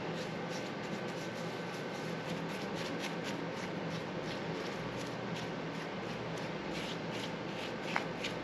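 Paintbrush bristles brushing thick paint onto an engine: a steady scratchy rustle made of many short, irregular strokes, with one sharper tick near the end.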